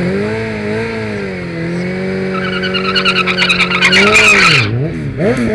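Sport motorcycle engine held at steady high revs during a burnout, with the rear tyre squealing from about two seconds in. The revs drop near the end, followed by a couple of quick blips.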